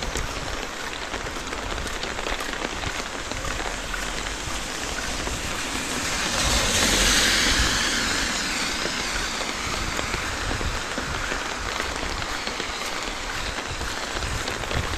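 Steady rain falling on a wet street. About halfway through, a vehicle passes on the wet road, its tyre hiss swelling and fading over two or three seconds.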